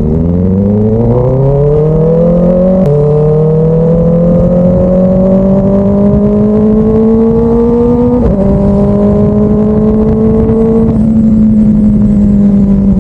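Kawasaki ZX-4RR inline-four motorcycle engine accelerating hard with rising revs. Pitch drops at two upshifts, about three seconds in and again just after eight seconds, then holds steady and eases slightly near the end.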